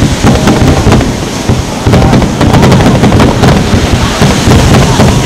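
Water-launched fireworks going off in quick succession: a continuous low rumble of booms with many sharp cracks scattered through it.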